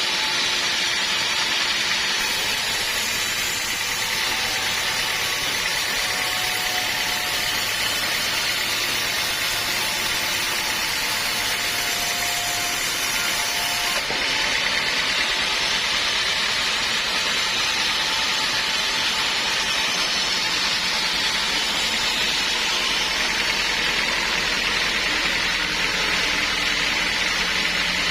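Sawmill machinery running steadily with a continuous mechanical noise, its sound changing abruptly about halfway through.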